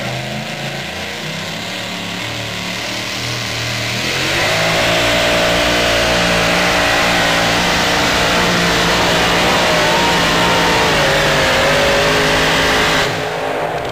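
A super modified two-wheel-drive pulling truck's supercharged engine, running lower at first, then going to full throttle about four seconds in for the pull. It runs loud with a wavering pitch, then stops abruptly near the end.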